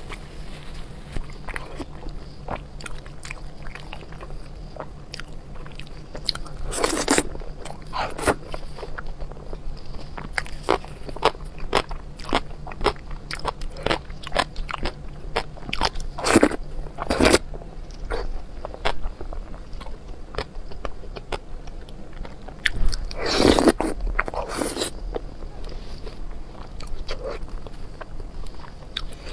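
Close-miked eating: wet biting and chewing of sticky, sauce-coated braised meat, many small clicks and smacks with a few louder bites.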